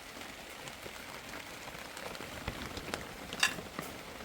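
Steady rain pattering on a surface, a dense scatter of small drop ticks, with one brief, sharper noise about three and a half seconds in.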